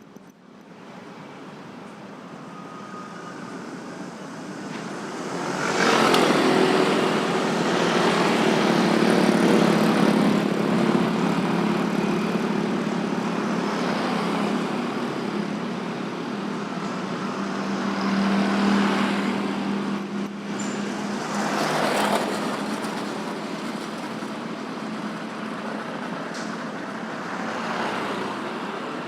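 Road traffic with motorbikes, cars and trucks: quieter at first, then from about six seconds a steady engine hum with vehicles passing close by, loudest about six and twenty-two seconds in.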